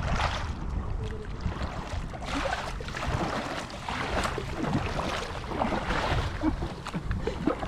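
Kayak paddle strokes splashing in the water every second or two, over a steady low rumble of wind on the microphone.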